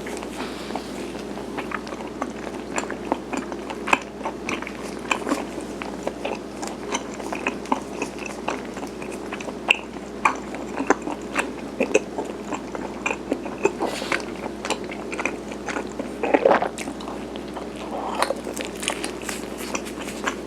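Close-miked chewing and biting of chewy Korean rice cake (garaetteok), with irregular wet mouth clicks throughout and a denser run around two-thirds of the way in, over a steady low hum.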